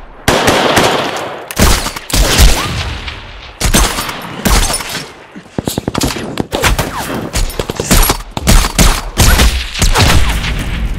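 Heavy gunfire in a film firefight: rapid bursts and single shots, each trailing off, loud throughout.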